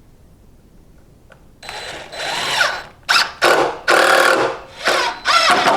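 Power drill running in a series of short trigger bursts, its motor whine rising and falling, starting about a second and a half in: drilling holes for set screws.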